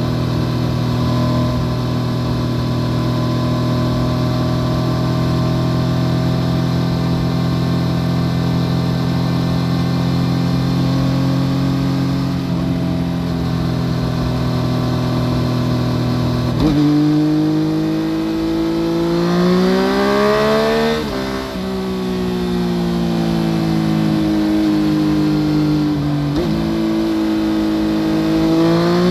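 2014 Yamaha FZ-09's 847 cc inline-three through an Akrapovic full exhaust, heard from under the seat. It runs at a steady cruise for a little over half the time, then the revs jump suddenly and climb under acceleration. They drop sharply at a gearshift, fall away as the bike slows, and jump and climb again near the end.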